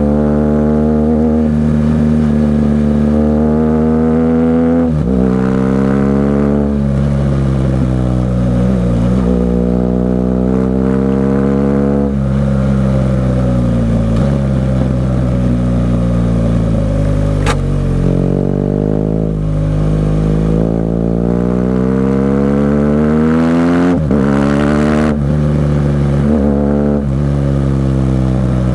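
BMW R 1200 GS Adventure boxer-twin engine through an SC-Project aftermarket exhaust, its note rising under throttle and falling off again and again. It drops suddenly in pitch three times, at gear changes, and there is a single sharp click a little past the middle.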